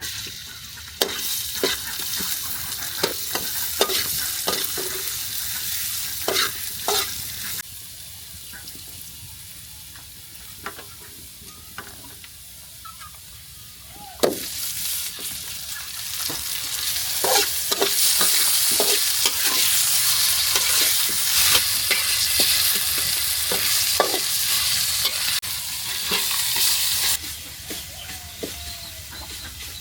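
Food sizzling and frying in a pan while being stirred, with sharp clicks and scrapes from the utensil. The sizzle is quieter for several seconds in the middle, then comes back loud.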